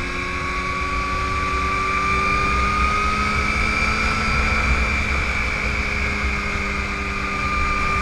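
Yamaha R1 sport bike's inline-four engine running at a steady cruise, its whine slowly rising in pitch and then easing slightly, over a low wind rumble.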